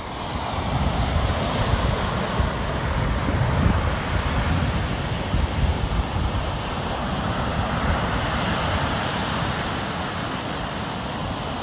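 Ocean surf breaking and washing in, a steady rushing hiss that swells over the first few seconds and then eases slightly, with wind gusting on the microphone.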